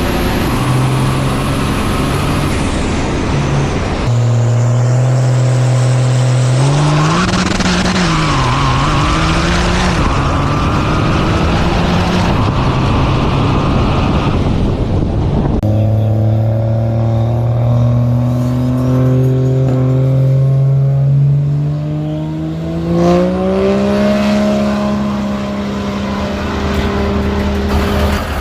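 Diesel pickup truck engines running hard at high rpm across a few cut-together clips. The steady engine note wavers in pitch in the middle and climbs near the end.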